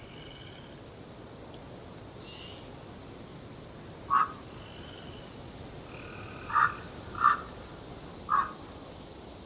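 Forest birds calling: four short loud calls, two of them close together near the middle, with fainter, higher thin notes in between, over a steady background hiss.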